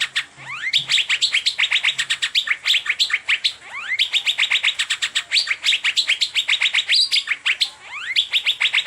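Asian fairy-bluebird (cucak biru) singing a fast, unbroken run of sharp, high chirps, about nine a second, broken by a few rising whistled slurs.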